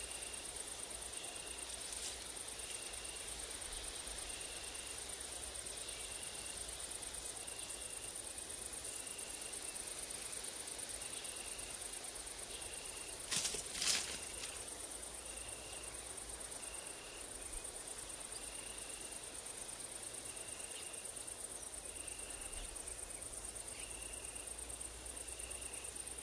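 Grasshoppers and crickets stridulating in a steady high-pitched hiss, with a short chirp repeating about every second and a half. Two sharp clicks close together about halfway through are the loudest sounds.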